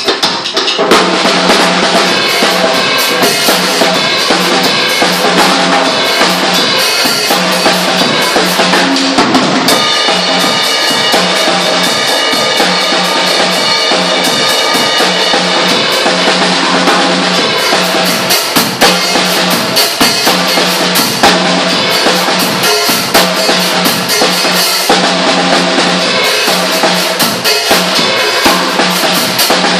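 Drum kit being played: a continuous beat of bass drum, snare and cymbal strikes.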